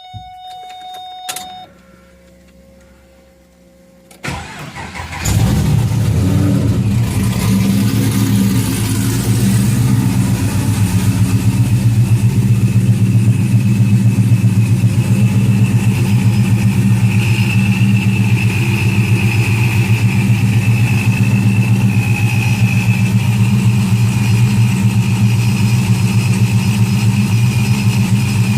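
Cold start of a ProCharger-supercharged Pontiac G8: short electronic beeps, then the starter cranks about four seconds in and the engine catches and settles into a steady, evenly pulsing idle.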